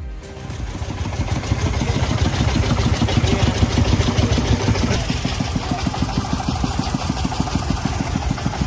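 A vehicle engine running with a fast, even chugging pulse. It starts just after a cut and stays steady throughout.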